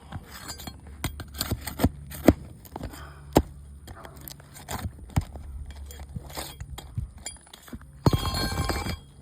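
Brittle asphalt roof shingles cracking and tearing as they are lifted and broken loose from their seal, a run of sharp snaps and clicks, with a rasping scrape near the end. The cracking is a sign of how brittle the shingles are, too brittle to repair.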